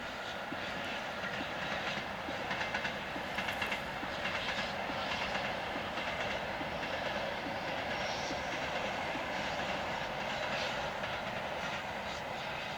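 Train running past on the line, its wheels clicking over the rail joints.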